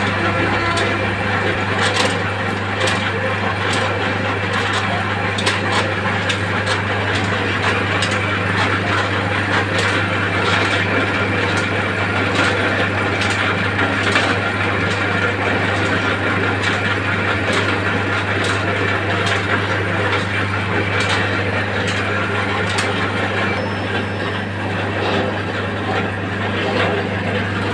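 A machine running with a steady low hum, under frequent irregular clicks and knocks, as of metal being worked.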